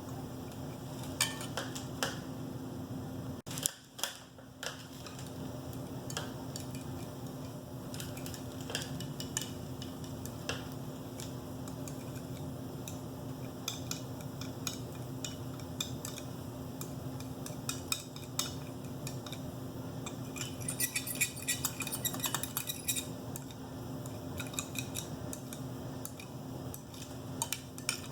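A coffee spoon clinking and tapping against a cup while stirring baby-bird hand-feeding formula into hot water, in scattered light clicks with a busier run of clinks about two-thirds of the way through. A steady low hum runs underneath.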